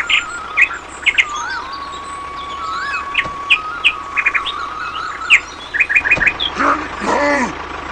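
Birds chirping: many short, sharp chirps and a few whistled glides over a steady high tone. Near the end comes a louder call with several bending pitches.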